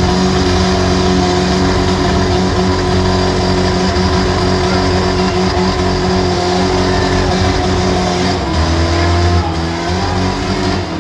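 Compact car engine revved up and held at high revs for several seconds, then dropping to a lower speed about eight and a half seconds in.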